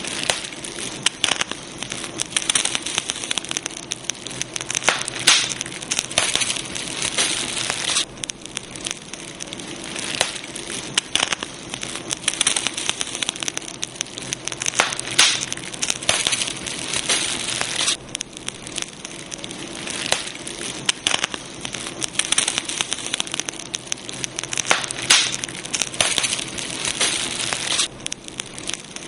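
Campfire crackling, a dense, unbroken run of sharp snaps and pops over a steady hiss, coming in busier and calmer spells.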